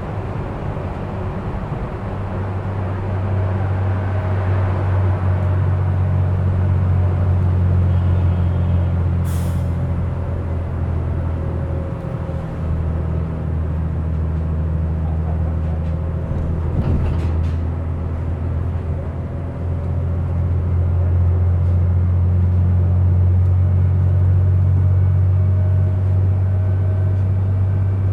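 Bus engine drone heard from inside the passenger cabin while riding, steady and low, swelling and easing a few times. A brief sharp sound comes about nine seconds in, and light clicks come around seventeen seconds.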